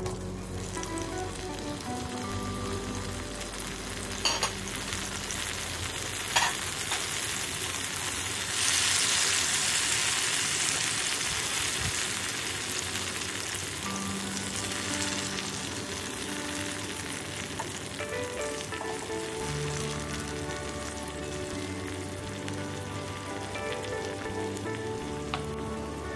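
Tomato wedges sizzling in hot olive oil with browned garlic in a frying pan. The sizzle swells loudest about a third of the way in and then slowly eases. A few sharp knocks and a spatula stirring in the pan can be heard.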